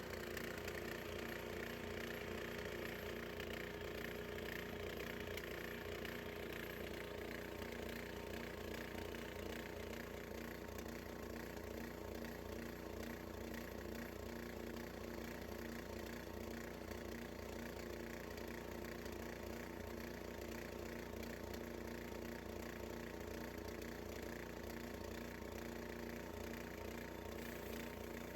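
Gasoline engine of a Harbor Freight band sawmill running at a steady pitch as a wide cedar log is sawn.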